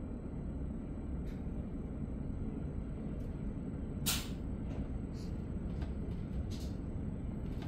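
Steady low rumble of a double-deck DPZ commuter train running along the line, heard inside the passenger coach. A brief hiss about four seconds in and a few faint clicks or rattles.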